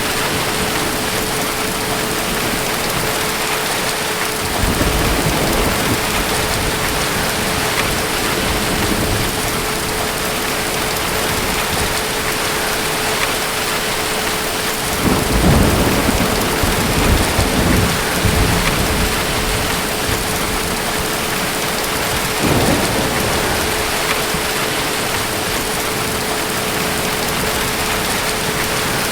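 Steady heavy rain with distant thunder rumbling: one low rumble swells about four seconds in, a longer, louder roll comes about halfway through, and a shorter one follows about three-quarters of the way through.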